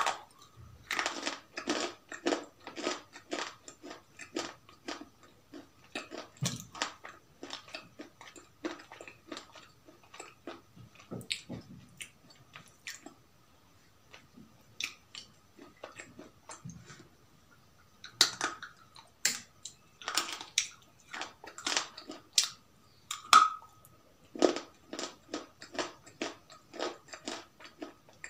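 Close-miked crunchy chewing and biting: rapid crackling crunches, thinning out to near quiet for a few seconds around the middle, then louder bites again. A faint steady high tone runs underneath.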